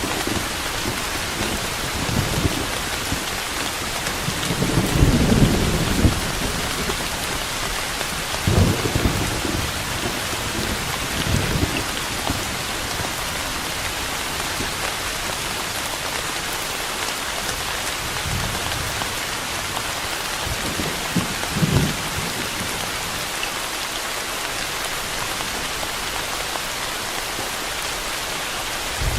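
Steady heavy rain falling, with low rumbles of thunder swelling and fading several times, the strongest about five seconds in and another just before twenty-two seconds.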